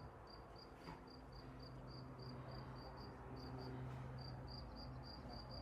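A cricket chirping in a steady rhythm of short high chirps, about three a second, pausing briefly near the middle. A faint low hum lies underneath.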